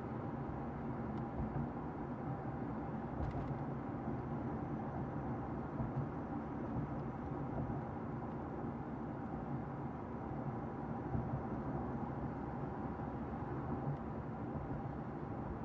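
Car interior while driving: a steady low rumble of road and engine noise in the cabin.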